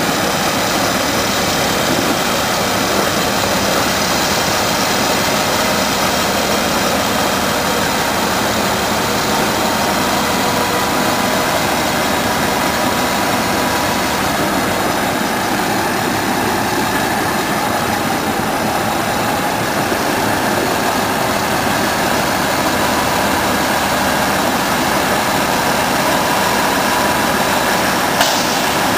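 A motor vehicle's engine running steadily, with a dense, even noise and a brief click near the end.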